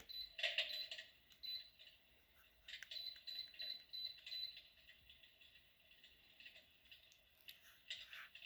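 Electric fireplace giving a series of short high beeps, about two to three a second, as its remote steps the flame brightness, over faint crackling from its built-in fire sound effect.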